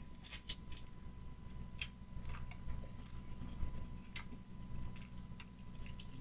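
Quiet chewing and biting into a sauced chicken wing: irregular short wet clicks and smacks from the mouth.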